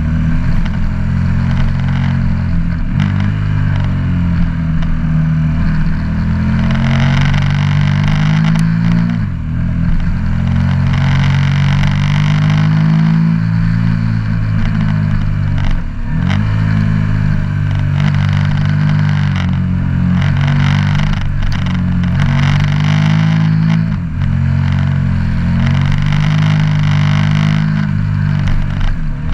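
KTM 1290 Super Duke R's V-twin engine, heard from the rider's seat, pulling through a run of bends: its note rises and falls with the throttle, and the pitch drops sharply and climbs again four times, as the throttle is rolled off and back on between corners.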